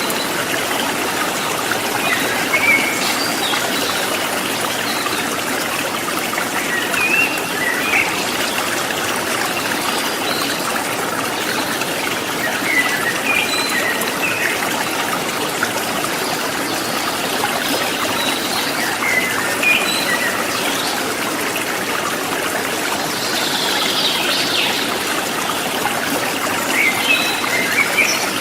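Rocky river water running steadily over stones, with scattered short bird chirps above the flow.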